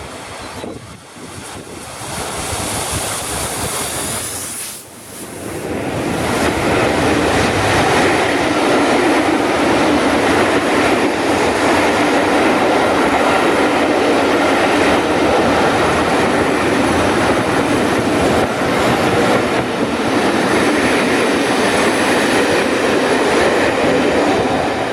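Steam locomotive 60163 Tornado, an A1 Pacific, drifting past with steam shut off, then its train of Pullman coaches rolling by. The sound builds over the first few seconds, dips briefly about five seconds in, then holds as a loud, steady rush of wheels on the rails.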